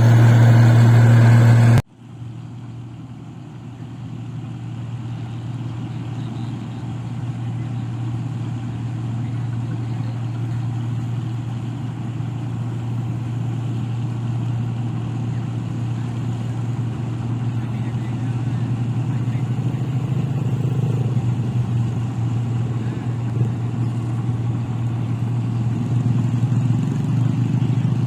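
Rice combine harvester's engine running with a steady drone. About two seconds in it drops abruptly to a quieter drone, which then grows steadily louder.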